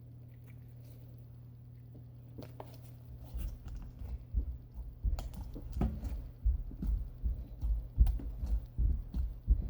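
Flarp noise putty being squeezed and pressed in its tub, giving irregular low squelching noises that start a couple of seconds in and come every half second or so. A steady low hum sits under it.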